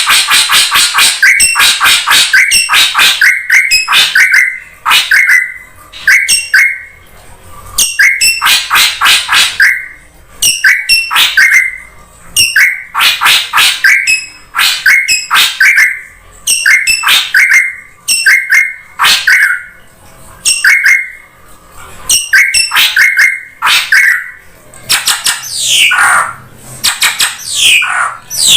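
Drongo calls played as a bird lure: loud, rapid bursts of sharp chattering and ringing notes, each burst lasting a second or two with short gaps between, and a few falling whistled notes near the end.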